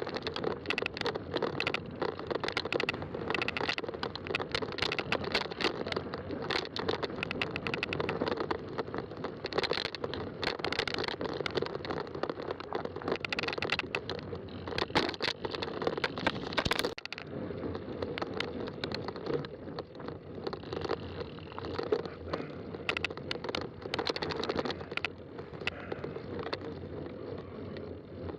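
Fat-tire bike riding along a trail: steady tire rumble and crunching with many small clicks and rattles over bumps, and a sharper knock about two-thirds of the way through.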